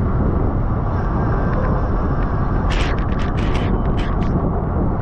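Steady wind rushing over the microphone of a camera riding on a racing road bicycle at speed. About halfway through comes a quick, uneven run of sharp clicks.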